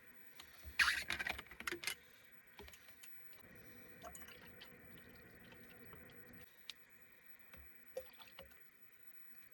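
Clattering handling noises: a quick run of clicks and rattles about a second in, then a few scattered small clicks over a faint steady hum.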